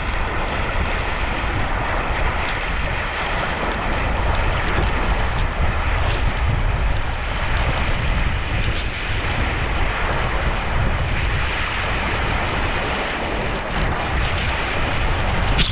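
Gusty wind buffeting the microphone, a steady heavy rumble over the rush and splash of water around a small sailboat under way.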